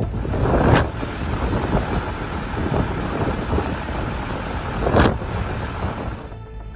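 Loud, steady rushing noise with two brief louder surges, about one second in and about five seconds in; music begins near the end.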